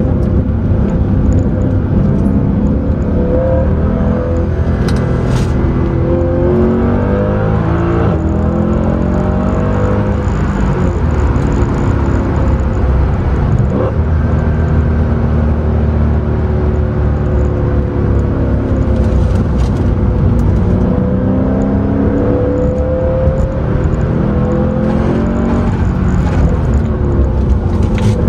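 Mercedes C63 AMG's 6.2-litre V8 heard from inside the cabin under hard driving, its revs climbing and falling again and again.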